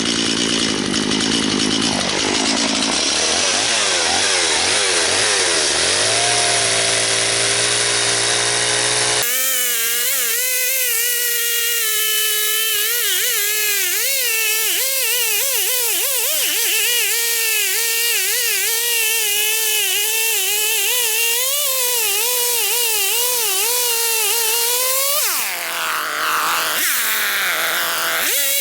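A chainsaw runs and slows over the first nine seconds, its pitch falling in steps. It is followed by a continuous whine whose pitch wobbles up and down.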